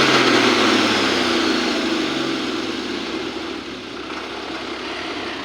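A vehicle engine whose pitch falls and level drops over the first two or three seconds, settling into a quieter steady running sound.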